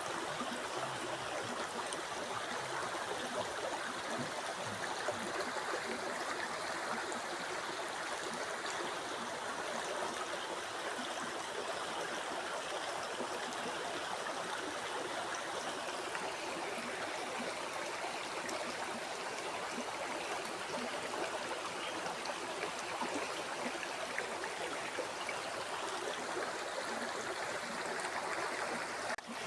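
A flowing river: a steady, even rush of water that dips for an instant near the end.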